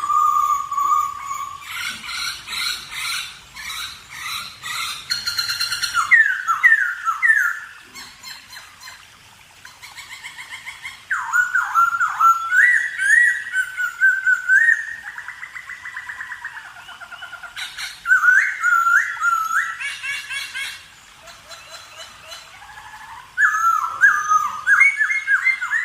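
Parrots calling in a run of short recordings of different birds, with whistles, chirps and sweeping squawk-like notes. The calls change abruptly every few seconds from one bird to the next.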